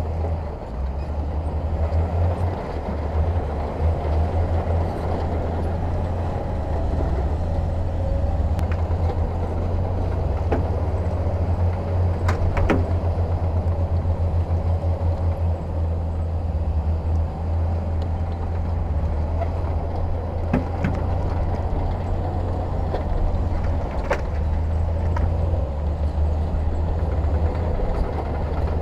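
Heavy diesel earthmoving machinery running steadily with a deep engine rumble, and occasional sharp knocks now and then.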